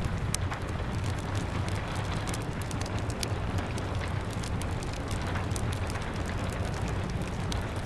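Steady rain pattering on a window, mixed with a crackling wood fire: many small sharp pops scattered irregularly over a constant low rumble.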